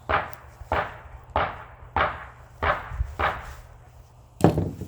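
A steady series of sharp knocks, about three every two seconds, with the loudest near the end, as a gold-plated pin header is knocked off a piece of scrap electronics.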